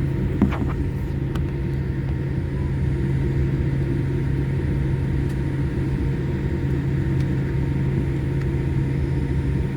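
Steady low rumble and hum inside the cabin of a Boeing 787 Dreamliner taxiing, from its idling engines and air system. There is a brief click about half a second in.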